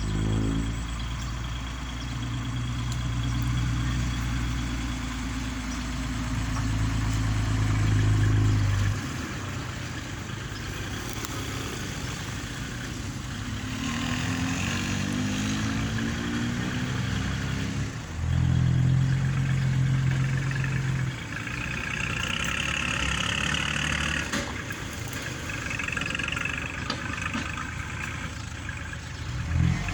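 Tractor's diesel engine running and working. It holds steady, drops off about nine seconds in, rises and falls in pitch, then comes back strongly around eighteen seconds.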